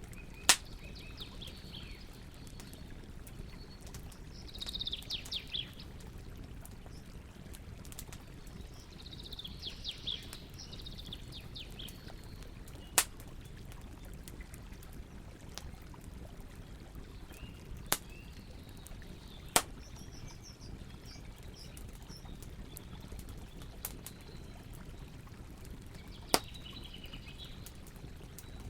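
Campfire burning with a steady low rumble and about five sharp pops scattered through, the loudest sounds here. Small birds sing in short bursts of chirps several times between the pops.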